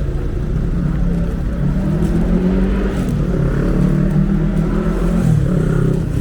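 Road traffic: a motor vehicle's engine running close by as a steady low hum that shifts slightly in pitch, over a constant low rumble.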